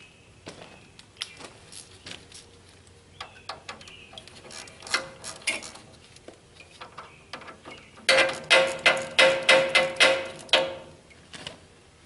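Scattered light clicks and knocks of hand tools working on the hose connections of a Case 580C backhoe's radiator. Near the end comes a quick, even run of about ten sharp metallic clicks with a ringing tone, about four a second, lasting a couple of seconds.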